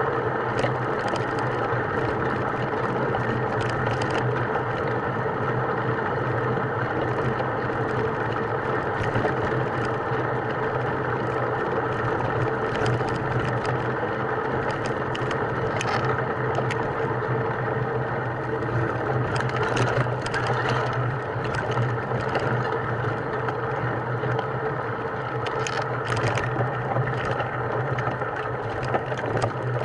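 A motor running steadily at a constant pitch, with scattered clicks and rattles over it.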